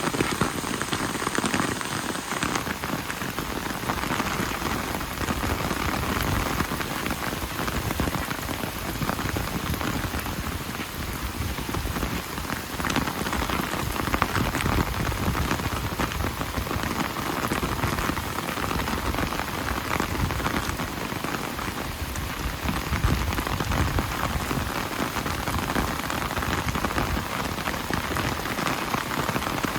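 Steady rain falling and pattering on surfaces, a dense even hiss of drops with no let-up.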